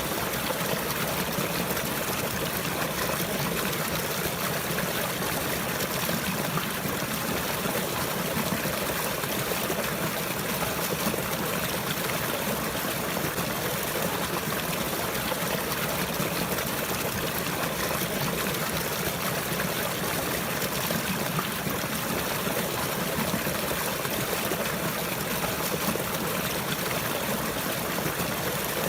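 Running water flowing steadily, an even, unbroken rush of water noise with no pauses or changes.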